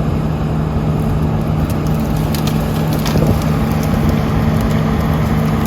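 A 440-horsepower wood chipper running steadily under load, with short cracks and splintering as wood goes through it.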